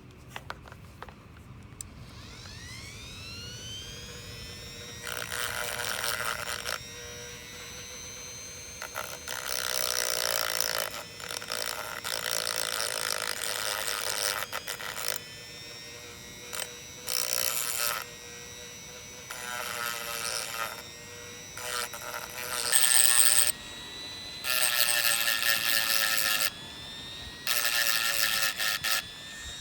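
Small electric power tool whining as it spins up, then grinding metal in about eight rough bursts of one to two seconds each, the motor's steady whine running beneath. An engine valve is being ground down.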